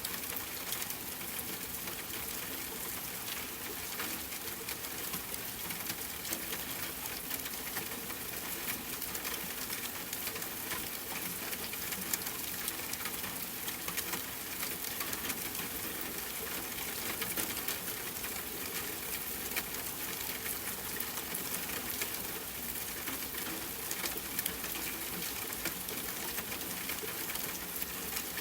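Steady rainfall mixed with a crackling fire: an even wash of rain with frequent small pops and clicks scattered throughout.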